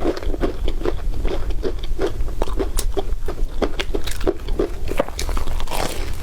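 Close-miked chewing of crispy bread: crackly crunches over a steady rhythm of about two to three chews a second.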